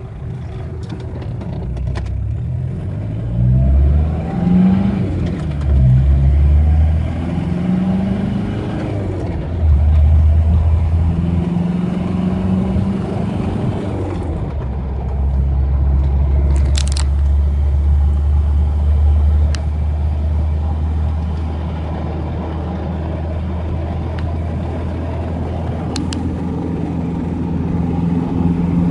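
Ford Ranger's swapped-in Mitsubishi 4D55 2.3-litre turbo diesel heard from inside the cab, pulling up through the gears. Its pitch rises and drops several times over the first ten seconds or so, then it settles to a steady cruise.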